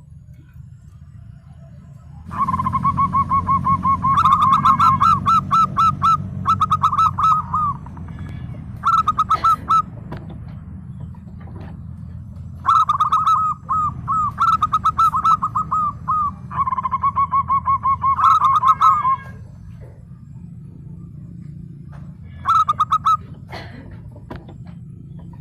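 Zebra dove singing: several phrases of fast, staccato cooing notes, each lasting from under a second to several seconds, with short pauses between. A steady low hum runs underneath.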